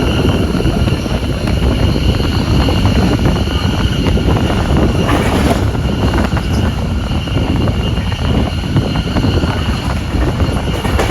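Steam-hauled passenger train running along the line: a steady, loud rumbling rush of wheels and moving air, with a faint high whine throughout.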